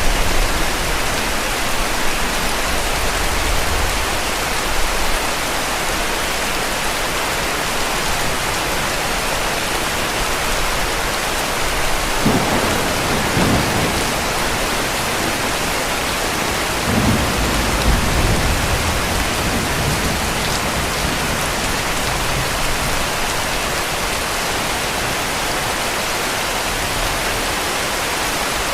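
Heavy rain falling steadily, with two low rumbles of distant thunder, one about halfway through and another a few seconds later.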